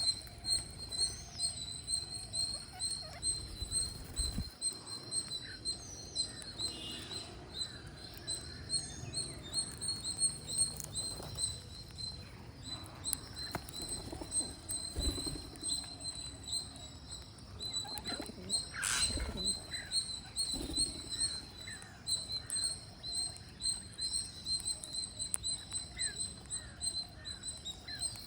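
Green parrots feeding: brief chirps and calls over scattered short clicks and taps of pecking at food. A steady, high-pitched pulsing tone runs underneath throughout. A louder burst of clicks and calls comes about two-thirds of the way in.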